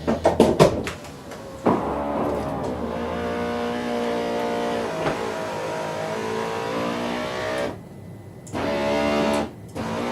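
Porsche 986 Boxster's electric convertible-top motor raising the roof deck: a few clicks, then a steady motor whine for about six seconds that stops, pauses, and runs again briefly near the end.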